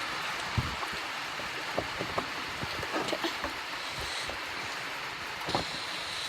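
Steady hiss of rain with scattered ticks of drops landing close by.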